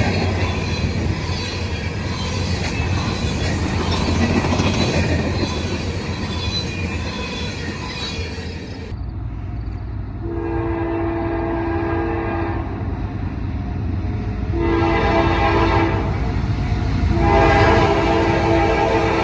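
A freight train passing close by, with steady wheel and rail noise. It cuts off abruptly and is followed by a diesel locomotive's multi-tone horn sounding three blasts: a long one, a shorter one, and another long one.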